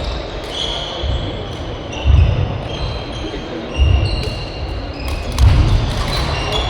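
Badminton play on an indoor court: shoes squeak sharply on the floor, heavy footfalls thud about three times, and rackets click against the shuttlecock, all echoing in a hall.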